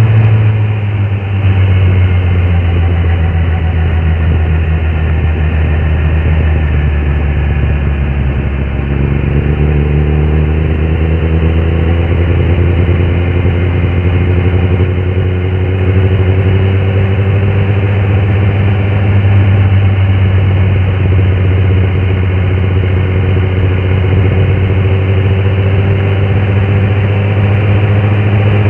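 Kawasaki inline-four sportbike engine running steadily and loud, with a slow, gradual rise in pitch from about a third of the way in.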